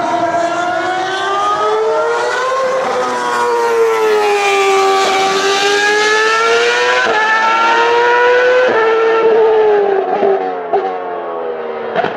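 High-revving Ferrari racing car engine running hard on track. Its note rises and falls in several long sweeps, with brief breaks in the note in the second half.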